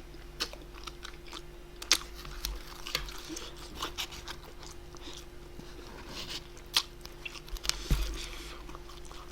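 A person chewing and biting food close to the microphone: irregular wet mouth clicks and smacks, with a few sharper crunches, over a faint steady hum.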